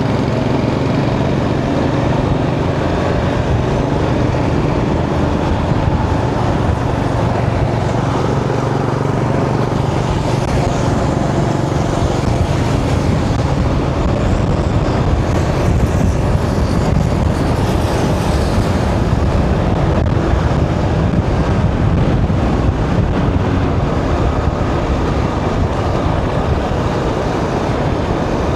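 Motorcycle running steadily at highway speed, with road and traffic noise.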